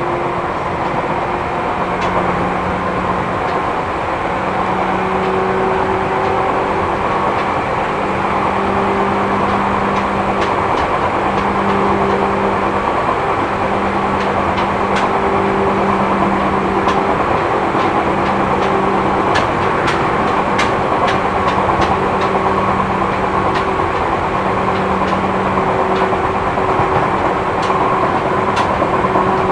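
Inside a Seibu New 2000 series electric train running at speed: a steady rumble of wheels on rail with a low motor whine that breaks off and comes back, and sharp clicks over the rail in the second half. The wheels have flat spots, so flat-wheel noise runs through the ride.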